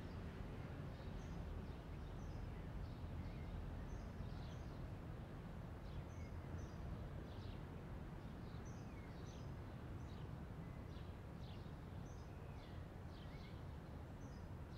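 Birds chirping on and off over a steady low rumble of background noise.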